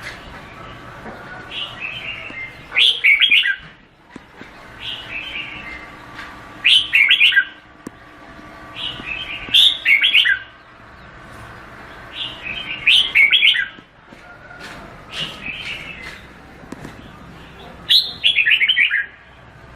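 Red-whiskered bulbul singing. It repeats a short, bright phrase of quick warbled notes about every three seconds, and a softer note or two comes just before each louder phrase.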